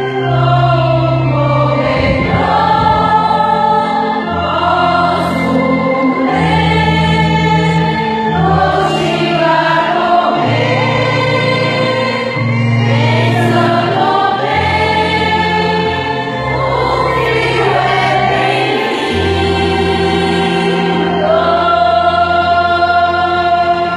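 Music: a gospel song with several voices singing in harmony over long held bass notes that change every couple of seconds.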